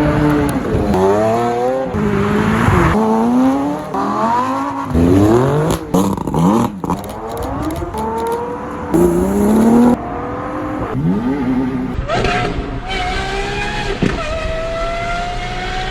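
Supercar engines revving hard and accelerating away, their pitch climbing and dropping back with each gear change, in a run of short clips cut one after another.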